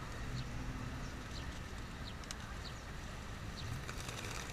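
Small bird chirping: short high chirps repeated every half second or so over a steady low background rumble.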